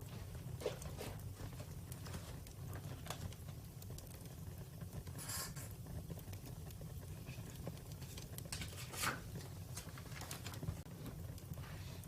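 Wood fire crackling: irregular pops and snaps over a steady low rumble, with a louder snap about five seconds in and another about nine seconds in.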